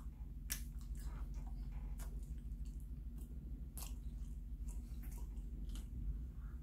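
A person chewing bread close to the microphone, with irregular wet mouth smacks and clicks, over a steady low hum.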